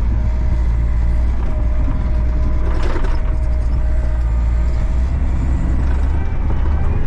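Skid steer's diesel engine running steadily, a deep rumble with a thin steady whine above it. A short rattle comes about three seconds in.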